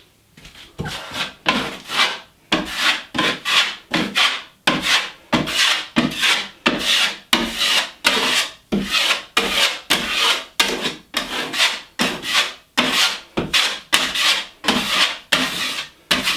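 Drywall knife spreading joint compound (mud) on a wall over a hole repair, in quick repeated scraping strokes, about two a second.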